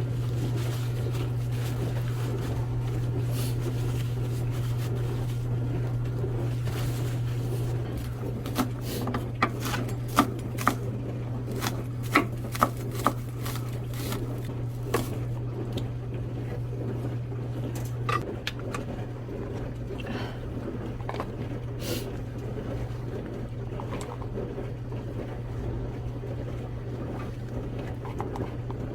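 Kitchen handling sounds: a scatter of sharp clicks and knocks over a steady low hum, with the clicks bunched in the middle.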